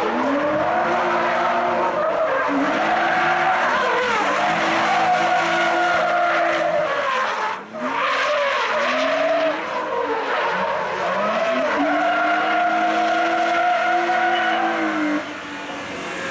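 Drift car engine revving hard, its pitch sweeping up and falling again several times as the tyres squeal in long slides. The engine note drops out briefly about halfway through, then picks up again.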